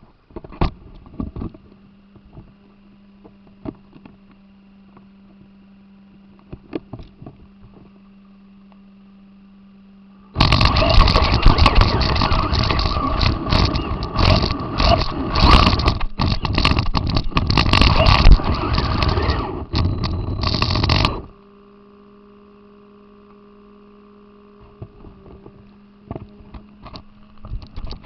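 RC car heard from its onboard camera. A low steady hum with scattered clicks, then about ten seconds of loud, rough scraping and rattling as the car drives over the ground, starting and cutting off suddenly.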